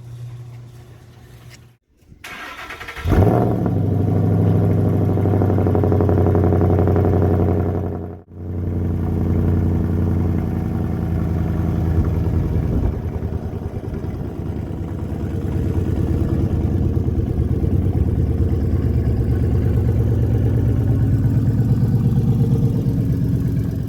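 Ford Mustang Boss 302's 5.0 L V8 with opened side-pipe exhausts and SLP Loudmouth axle-backs, starting about three seconds in and then idling steadily and loudly. The sound breaks off briefly about eight seconds in.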